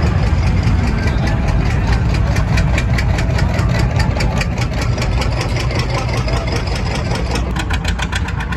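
Pulling tractor's engine running loud and steady with a fast, regular pulsing beat, which turns sharper near the end.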